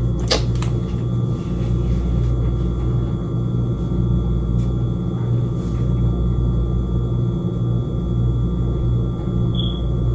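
Steady low mechanical hum with a few faint, constant high whine tones, like a kitchen appliance or fan motor running.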